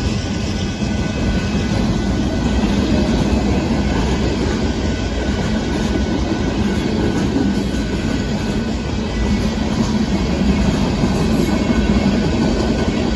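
Union Pacific freight train of boxcars rolling past at a level crossing: a steady rumble and rattle of steel wheels on the rails.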